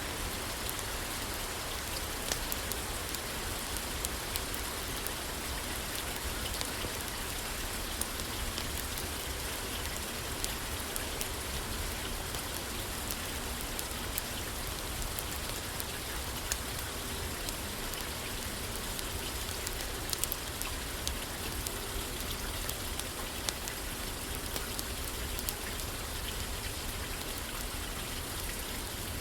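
Steady rain falling on a roof: an even hiss with scattered sharp ticks throughout.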